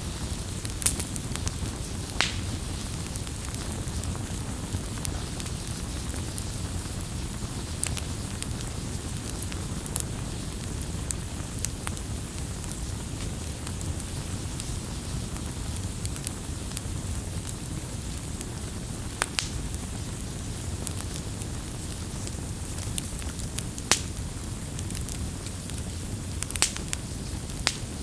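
Campfire burning with a steady low rumble of flames and irregular sharp crackles and pops of burning wood, a few of them louder snaps.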